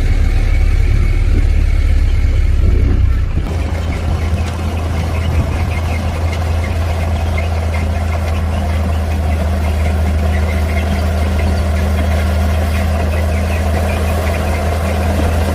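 Heavy diesel engine of earthmoving equipment running steadily. About three seconds in its low hum shifts, then it holds an even note.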